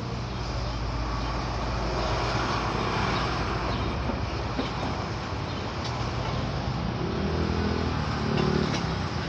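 Steady road traffic noise over a low engine hum, with a motor vehicle's engine coming up louder about seven seconds in.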